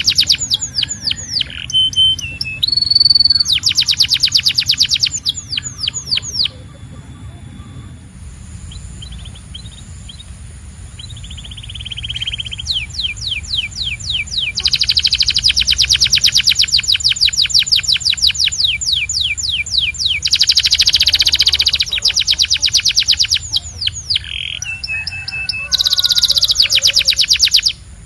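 Domestic canary singing: long runs of fast repeated trill notes with short held whistles between them. The song drops to quieter, sparser notes for several seconds about a quarter of the way in, then resumes in long trills.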